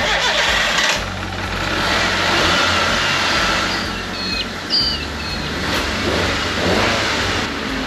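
Mitsubishi Mirage's four-cylinder petrol engine running on straight methanol with the bonnet up, revved so that its sound swells and falls a few times.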